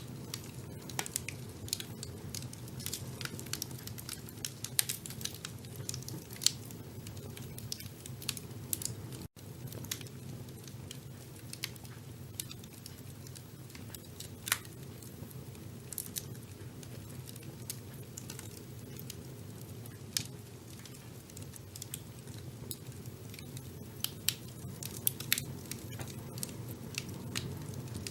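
Wood fire burning in a fireplace: irregular sharp crackles and pops over a steady low rumble of flames. The sound cuts out for a split second about a third of the way in.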